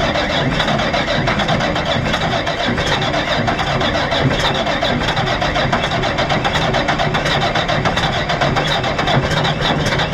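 Komatsu WA600 wheel loader's big diesel engine, just caught on a cold start and running steadily with a rapid, even firing beat. It has a big exhaust leak.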